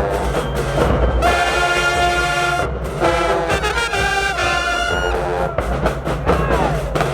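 High school marching band playing: the brass section sounds long held chords over drums, with a short break a little under three seconds in, and the drums come forward near the end.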